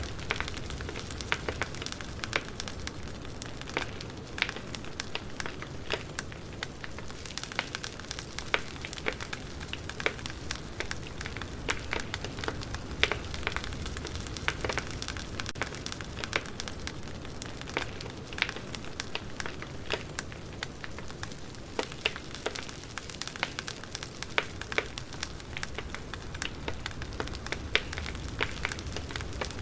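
Campfire burning, wood crackling and popping in frequent irregular snaps over a steady hiss of flames.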